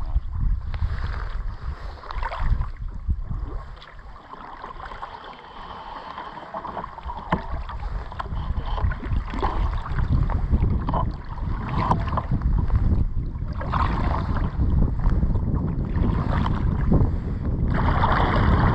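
Kayak paddle strokes splashing and dripping in lake water, with wind buffeting the microphone as a low rumble.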